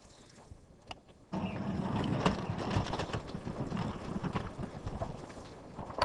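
Water from a hose spraying down as fake rain, starting suddenly just over a second in and running as a steady hiss.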